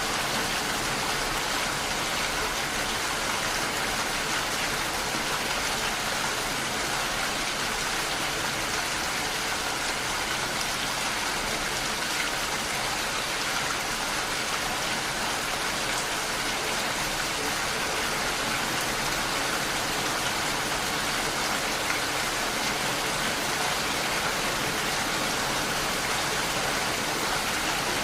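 Steady rainfall, an even hiss of falling rain with no breaks or changes.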